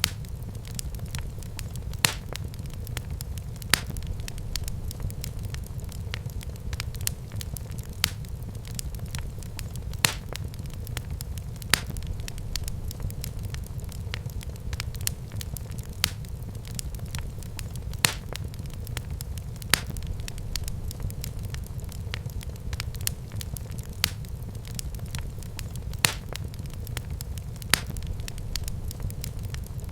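Wood fire in a fireplace crackling: a steady low rumble of flames with sharp pops every couple of seconds and fainter crackles in between.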